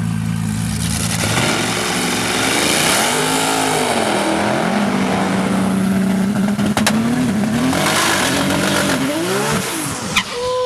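Car engine revving hard, its pitch sweeping up and down again and again after a steady idle in the first second or so.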